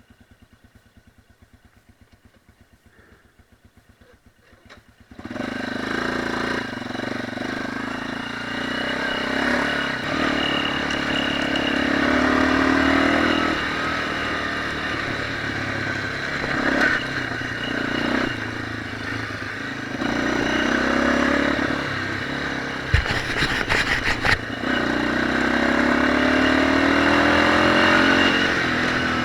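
Off-road motorcycle engine that cuts in abruptly about five seconds in, then runs and revs up and down as the bike is ridden. A short burst of clatter comes about two-thirds of the way through.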